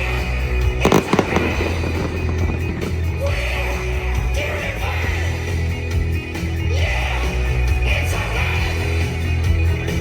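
Loud rock music soundtrack with a heavy bass playing over a fireworks display, with a quick cluster of firework bangs about a second in.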